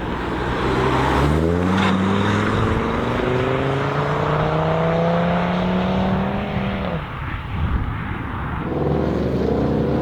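A high-performance car engine accelerating hard under load, its pitch climbing steadily for about six seconds before cutting off sharply as the throttle is released. A second rise in engine pitch starts near the end.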